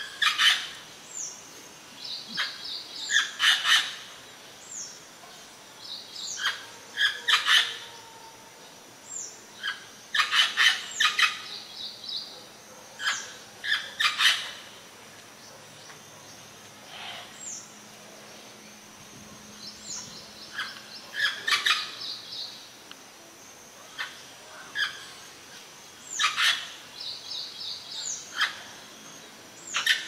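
Wild birds calling: loud, sharp calls come in quick clusters every second or two, mixed with repeated high, thin down-slurred whistles and short trilled rattles.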